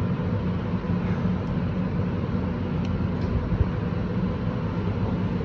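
A steady low rumble with a hum underneath, with a couple of faint clicks about three seconds in.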